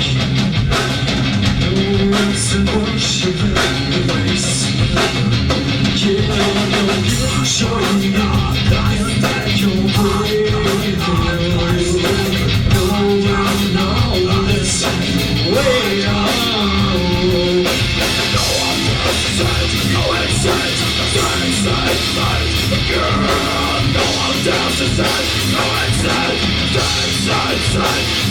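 Live rock band playing loud, with drum kit and electric guitar. A sustained wavering melodic line, sung or played, runs through the first two-thirds and drops out about 18 seconds in, while the band carries on.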